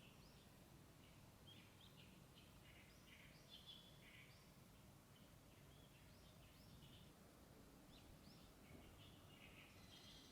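Faint birdsong: many short chirps and calls from several birds, over a low, even outdoor background noise.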